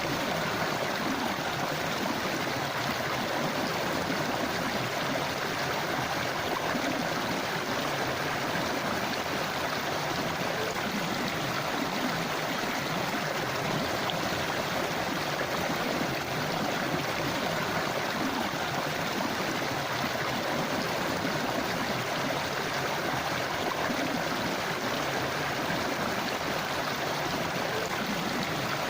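River water flowing over rocks: a steady, even rush with gurgling.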